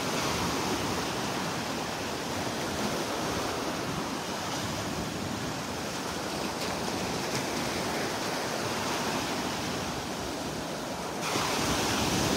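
Gulf of Mexico surf washing onto the beach: a steady rush of waves that grows a little louder and brighter about eleven seconds in.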